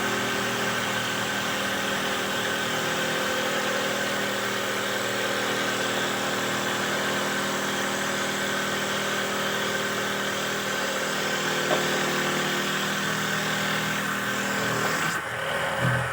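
Motor of a simple handmade wooden dowel-making machine running steadily with a constant hum, stopping about fifteen seconds in.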